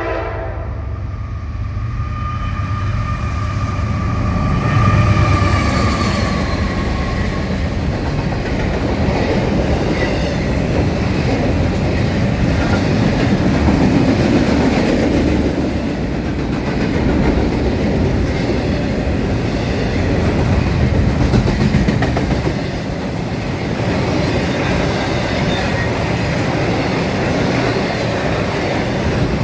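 Norfolk Southern train with two diesel locomotives passing close by: a steady, loud rumble with a fading engine tone in the first several seconds, then the rolling clickety-clack of wheels over rail joints.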